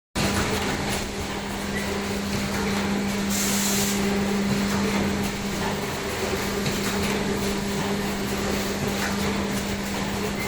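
Non-woven bag cutting and sewing machine running, with a steady electric hum and mechanical noise and faint ticks. A short hiss of air sounds about three seconds in.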